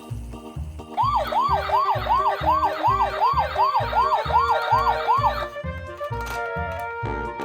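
An emergency-vehicle siren sweeping rapidly up and down, about two sweeps a second, starting about a second in and stopping after about four and a half seconds, over background music with a steady beat.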